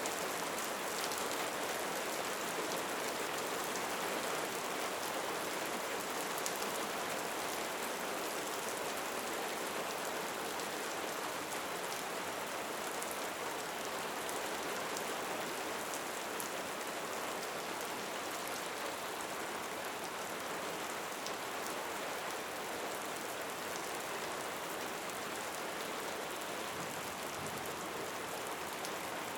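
Steady rain falling, an even hiss flecked with the ticks of many small drops.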